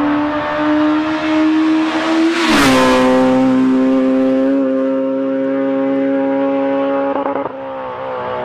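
Rally car passing at full throttle: the engine note climbs, peaks loudly as the car goes by about two and a half seconds in and drops in pitch, then holds high revs as it pulls away, with a drop in revs near the end as the driver lifts or shifts.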